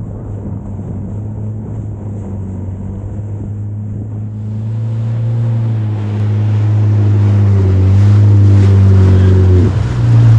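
Yamaha GP1800R WaveRunner personal watercraft, the naturally aspirated version, running underway with a steady engine drone that grows louder about halfway through. Its pitch dips briefly near the end as the throttle eases.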